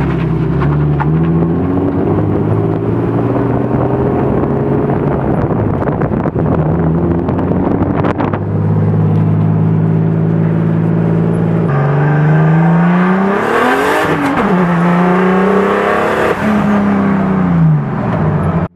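BMW E36's engine running on the road, holding a steady note for most of the time, then from about twelve seconds in revving up and easing off, its pitch rising and falling twice. The sound cuts off suddenly at the end.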